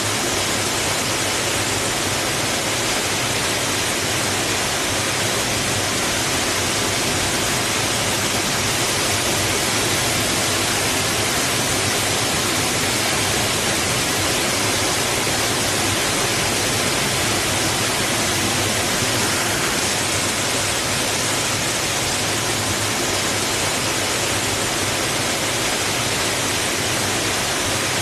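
Water rushing and splashing against rocks, a steady unbroken hiss with no swells or pauses.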